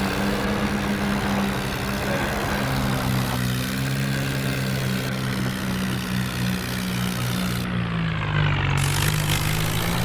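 Tractor engine running under load with a steady drone. About eight seconds in, the engine speed sags, then picks up again.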